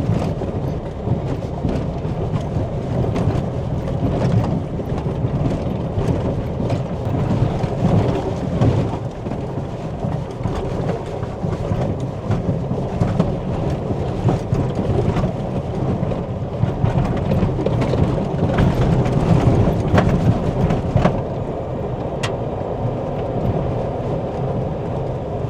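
1998 Toyota Tacoma driving over a rough dirt trail: a steady low rumble of tyres and suspension, scattered with many small knocks and rattles, cutting off suddenly at the end.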